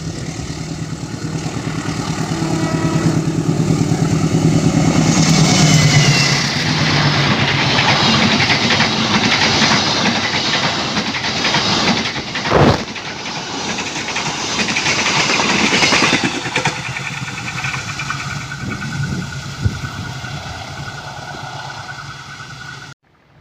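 CC201 diesel-electric locomotive passing close by, its engine drone sinking slightly in pitch as it goes by. Then the coaches rumble past on the rails for about ten seconds, with one sharp knock partway through, and the sound fades away.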